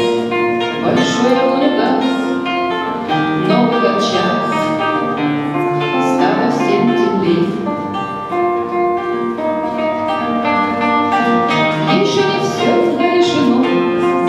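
Acoustic guitar playing a song live, in a passage without lyrics.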